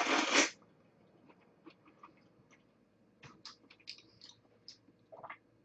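A person bites into a whole red fruit in the first half second, then chews with open-mouthed eating: soft, scattered wet clicks, with quiet gaps in between.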